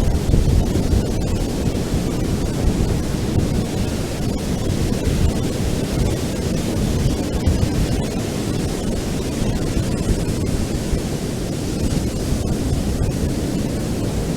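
Ocean surf on a beach, a steady low wash of waves with no single crash standing out, and wind on the microphone.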